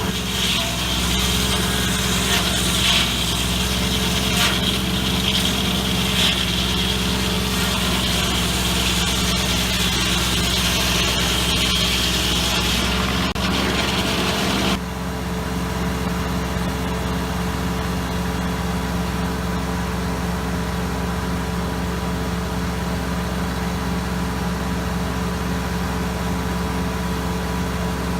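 An engine running steadily at a constant speed. A higher hiss that rides over it stops abruptly about fifteen seconds in, and the engine keeps running unchanged.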